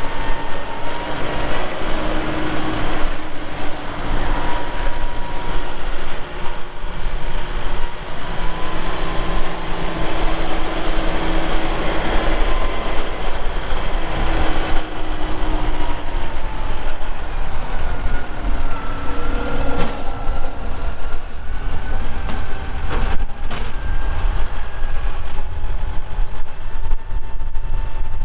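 Kubota M4-071 tractor's four-cylinder turbo diesel running while the tractor is operated, a steady low rumble with engine tones that drift up and down in pitch as the revs change.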